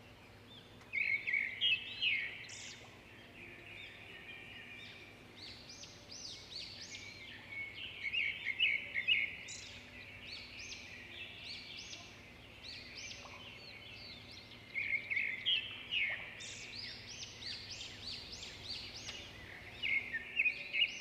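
Small birds chirping in quick runs of high, short calls that come in several bursts a few seconds apart, over a faint steady low hum.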